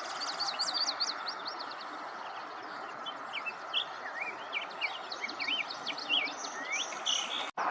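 Black-headed grosbeak singing: a run of quick whistled notes sliding up and down, over a steady background hiss. The sound cuts off sharply near the end.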